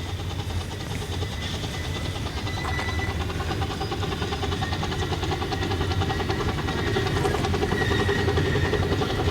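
A 15-inch gauge miniature train running on its track, with a dense rapid rattle of wheels and cars, growing louder toward the end.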